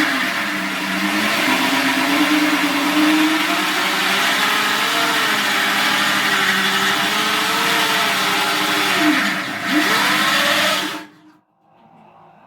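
Electric drill running a hole saw against sheet steel, its motor pitch sagging and rising as it bears down. The saw is blunt and barely cuts the steel. The drill stops about eleven seconds in, then starts again just before the end.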